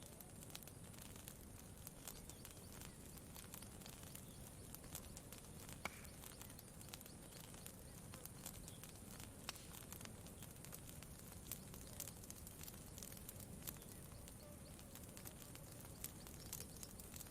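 Quiet campfire crackling: scattered sharp pops and snaps over a faint low steady background hiss, with one louder pop about six seconds in.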